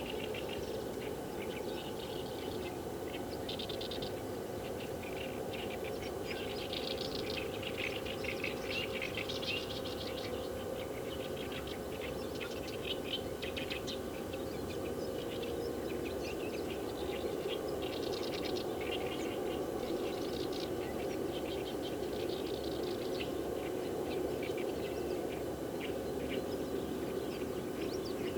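Wild birds singing in short, rapid chirping trills that repeat every second or two, over a steady low hum.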